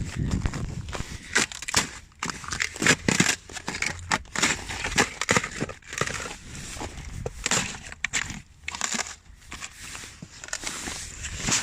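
Irregular crunching and crackling: many short, sharp crackles in quick, uneven succession, like something brittle being crushed or crinkled.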